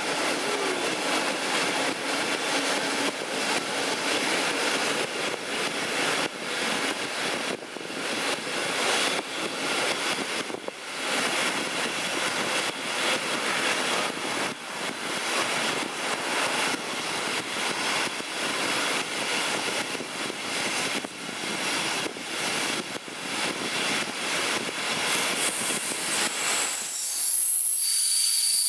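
Train hauled by a class 218 diesel locomotive running, heard from an open coach window: a steady rush of wind buffeting the microphone over wheel and rail noise. Near the end the low rumble drops away and a high hiss with thin whistling tones takes over.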